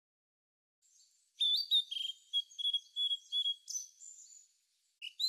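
Songbird singing: a series of short, clear high notes starting about a second and a half in, then a quicker trill near the end.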